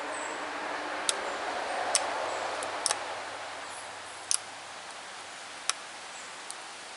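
Chert flake point being ground against a sandstone abrader: a scratchy rasp of stone on stone, with sharp clicks of the stones knocking together about once a second. The rasp eases after about three seconds.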